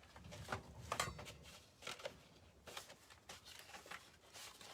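Quiet handling of craft materials on a table: a scattering of light taps and short paper rustles.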